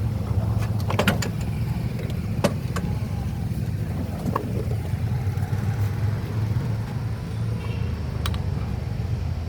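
A few sharp metal clinks of tools and parts being handled while a motorcycle engine is taken apart, over a steady low rumble.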